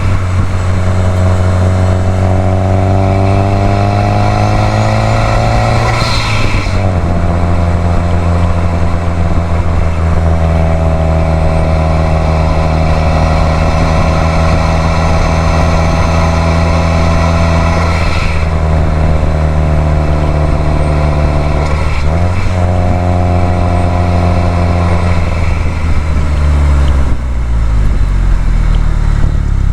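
2018 Subaru WRX STI's turbocharged flat-four boxer engine pulling on the road, its note rising slowly between gear changes and stepping sharply in pitch four times: about six seconds in, twice in the second half, and a few seconds before the end.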